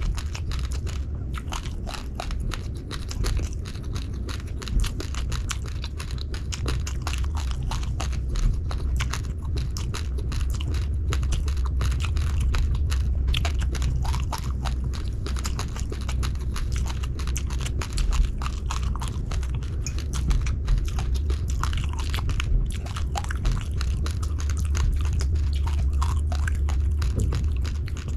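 Close-miked chewing of raw, uncooked rice grains: a dense, irregular run of small hard crunches and crackles, over a steady low rumble.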